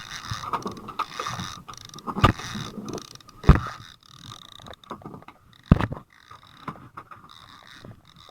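Handling noise of fishing gear on a boat: a few sharp knocks and bumps at irregular intervals over a faint steady whine.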